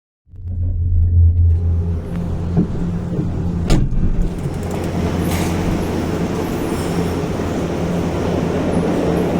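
Steady low hum and rumble of a vehicle in motion, starting abruptly after silence, with one sharp click partway through.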